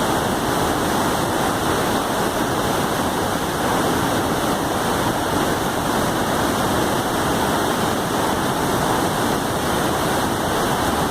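Waterfall rushing steadily, a dense, unbroken roar of falling river water.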